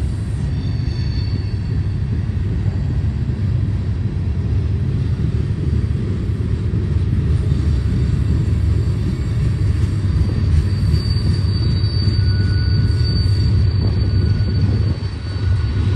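Freight train tank cars and hoppers rolling past at speed, a steady low rumble of wheels on rail. A faint high-pitched wheel squeal comes in past the middle and fades out near the end.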